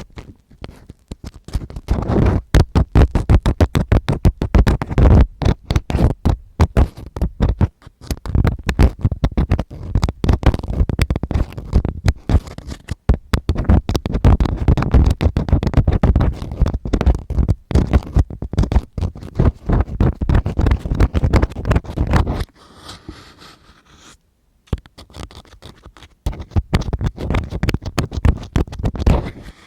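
Ear-cleaning ASMR: a tool scratching and rubbing rapidly right against the microphone in dense, irregular strokes. It goes quiet for a few seconds near the end, then starts again.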